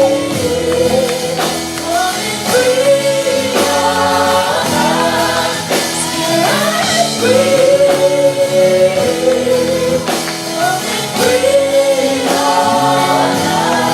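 Live gospel worship music: voices singing long held phrases over steady band accompaniment.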